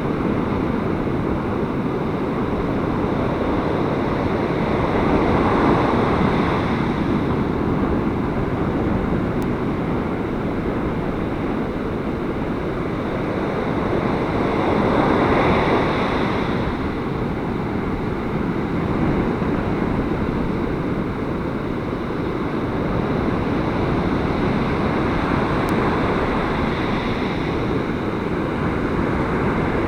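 Gale-force wind buffeting the microphone over surf breaking on a beach, a steady loud rush that swells a few times as waves break.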